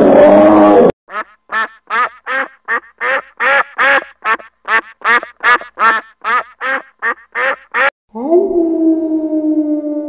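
Domestic ducks quacking in a quick, even series of about three quacks a second, after a loud animal growl cuts off about a second in. Near the end a wolf begins a long howl that slowly falls in pitch.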